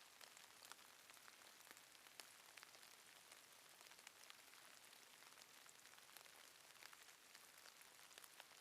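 Faint light drizzle: a soft hiss of rain with scattered tiny drops ticking.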